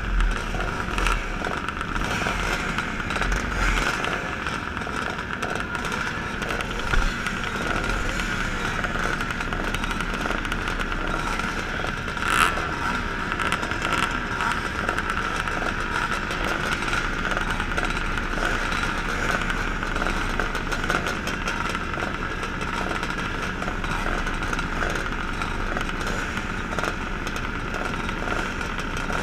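Motocross motorcycle engines running steadily while the bikes wait on the start line, heard through a helmet-mounted camera with some wind rumble on the microphone. Two brief sharp knocks stand out, the louder one about halfway through.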